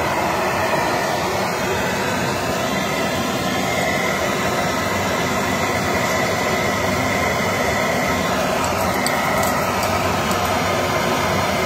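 Vacuum cleaner running steadily, a continuous motor drone with a faint whine.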